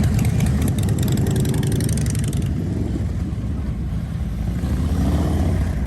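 Motorcycle engine running with a deep, steady rumble, joined by a hiss that drops away about two and a half seconds in.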